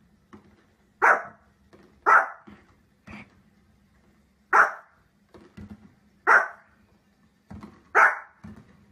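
Small spitz-type dog barking in single sharp, high-pitched barks: five loud ones spaced a second or more apart, with quieter yaps between them.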